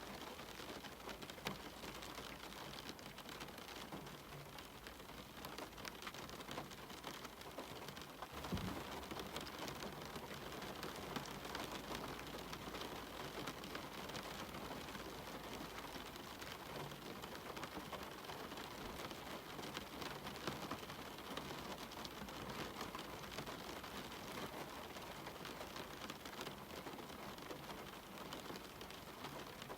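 Steady rain falling, with many small drops ticking close by. About eight and a half seconds in there is a single low thump.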